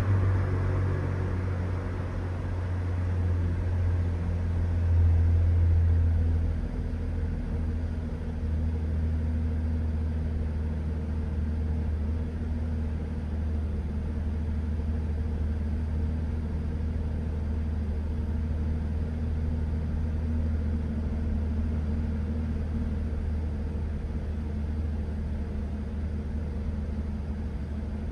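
Mercedes-Benz SL65 AMG's twin-turbo V12 idling after a cold start with a steady low hum. It swells briefly about five seconds in, then settles back to an even idle.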